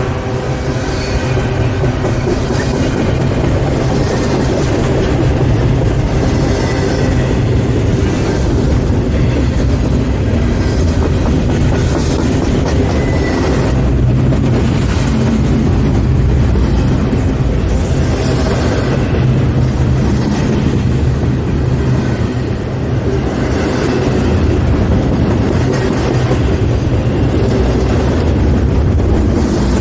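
CSX freight train rolling past close by: a steady low rumble of wheels on rail, with repeated clatter from the cars every few seconds.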